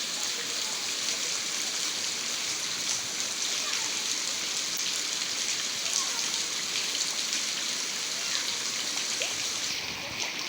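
Rain falling steadily in a thunderstorm, an even hiss of water with a slight drop in level near the end.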